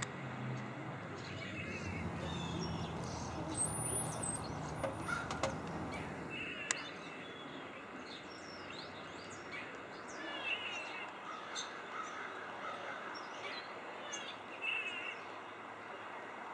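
Small birds chirping in short, scattered calls, over a low rumble that fades away about six seconds in.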